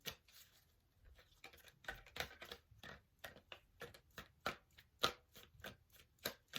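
Tarot deck being shuffled by hand: a run of short, soft card taps and flicks, a few each second.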